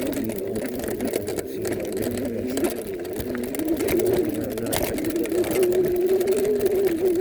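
Whine of a Vivi 26-inch e-bike's 350 W hub motor under power while riding. The whine wavers in pitch, then settles into a steadier, louder whine about four seconds in. Wind noise and scattered knocks from the bike over rough ground run beneath it.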